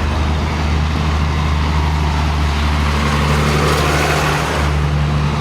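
Diesel tractor engines running steadily at a low, even pitch.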